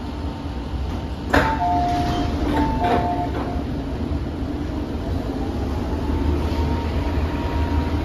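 Inside an MTR M-train car on the move: the steady low rumble of the running train. About a second in there is a sharp knock, followed by a two-tone falling chime that sounds twice.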